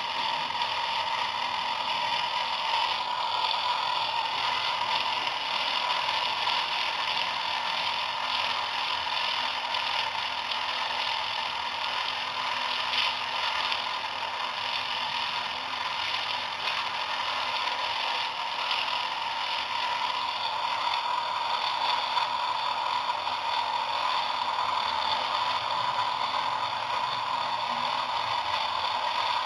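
Small electric motor and gears of a homemade miniature tractor-driven mill model running steadily, a continuous whirring rattle that holds the same pitch and level throughout.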